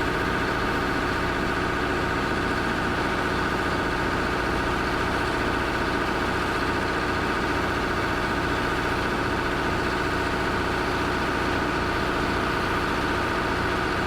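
Bulldozer's heavy diesel engine running steadily at an unchanging pitch and level.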